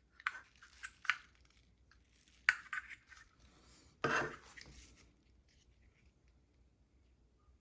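Small plastic toy pieces being handled, with several light clicks and taps and a short scrape about four seconds in.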